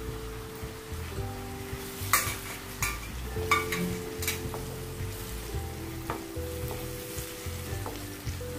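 Grated tomato sizzling in hot oil with fried onion and ginger-garlic paste, stirred with a spoon, with a few sharp knocks of the spoon against the pan between about two and four and a half seconds in.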